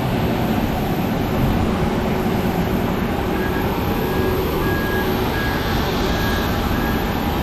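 Steady vehicle engine rumble with a short high beep repeating from about halfway through.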